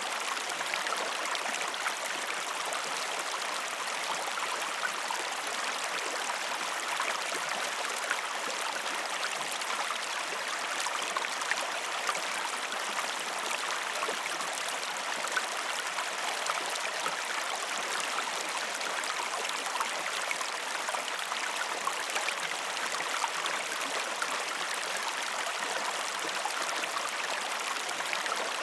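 Waterfall: water falling and splashing in a steady, continuous rush, with the energy mostly in the mid and high range and little low rumble.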